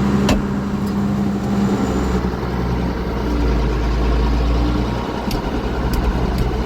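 Diesel loader tractor engine running steadily, with a few light clicks.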